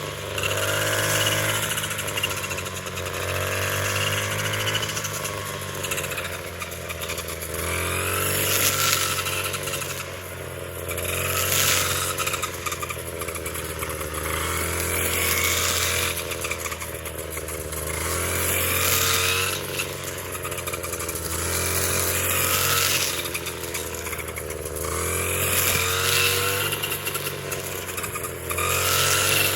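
A small engine running, its pitch and loudness rising and dropping back again every two to three seconds.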